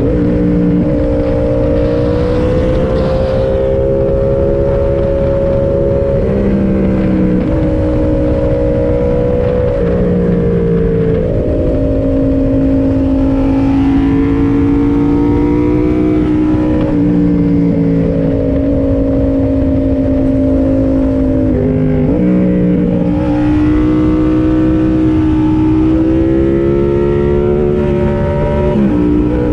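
Yamaha MT-07's parallel-twin engine under way, heard from the rider's position, its pitch climbing slowly and then changing abruptly several times as the rider shifts gears and rolls on and off the throttle. Steady wind rush runs underneath.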